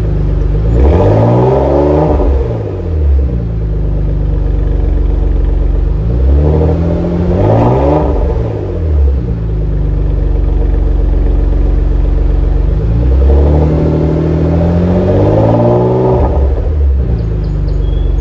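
Porsche Macan GTS twin-turbo V6 revved three times, each rev rising and falling back to a steady idle, the last one longer.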